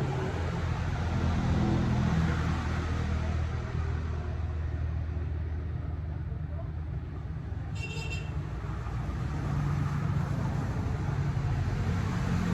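Motorcycle engine running steadily while riding, a low drone with road noise, and a short high-pitched tone about eight seconds in.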